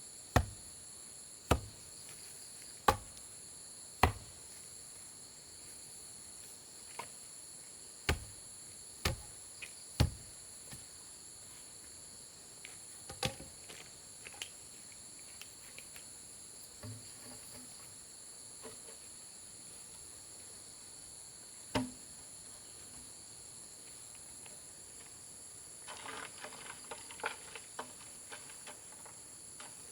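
Sharp tool strikes on wood, about one a second at first, then a few more spaced out, with a cluster of light clattering near the end. Insects chirr steadily and high-pitched throughout.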